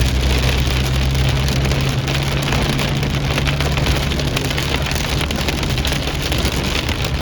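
Rain falling steadily, with a constant low hum beneath it like a vehicle engine or traffic.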